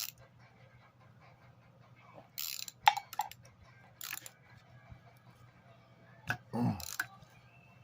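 Hand tools working a stuck nut on a salvaged electric motor: several short metallic scrapes and clicks of socket and wrench, in separate bursts, over a low steady hum.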